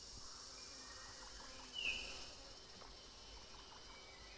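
Quiet tropical rainforest ambience: a steady high insect drone, with one short high call, falling slightly in pitch, just under two seconds in.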